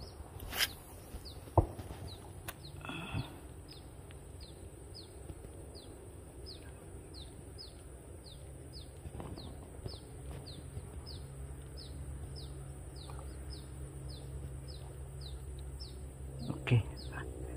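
A bird repeating a short, high, falling call about twice a second. A few sharp clicks come in the first three seconds.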